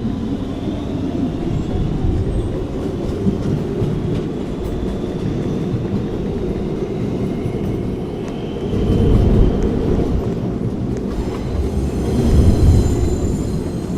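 Subway train running on the rails: a steady low rumble of wheels and track with faint high whining, swelling louder twice, about two-thirds of the way through and near the end.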